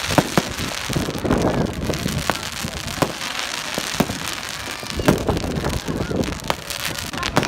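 Fireworks going off: irregular sharp bangs a second or so apart, over the chatter of a crowd.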